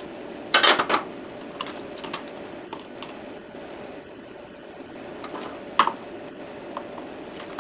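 Hand tools clicking and knocking against small metal parts while working a stuck screw loose: a quick cluster of clicks about half a second in, then scattered single clicks, the sharpest near the end. A faint steady hum sits under them.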